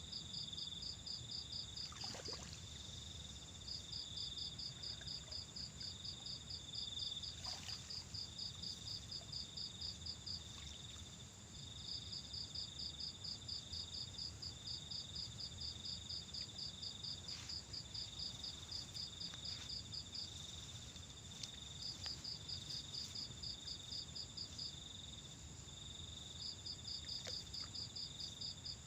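Insects chirping in rapid, evenly pulsed bouts of several seconds with short pauses between, over a steady high-pitched insect drone and a low steady rumble.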